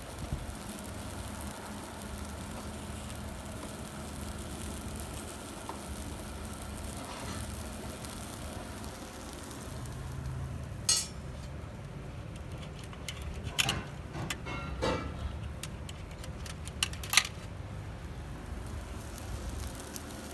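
A steady low rumble of outdoor cooking, with a few sharp clinks of cookware or utensils in the second half, loudest about 11 and 17 seconds in.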